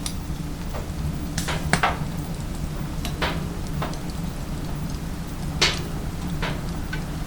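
Firewood burning in a wood-burning stove, crackling with irregular sharp pops over a steady low rumble.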